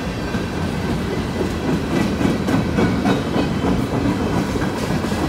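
Empty bulkhead flatcars of a CN freight train rolling past close by: a steady rumble of steel wheels on rail with repeated irregular clicks and clanks as the wheels cross rail joints.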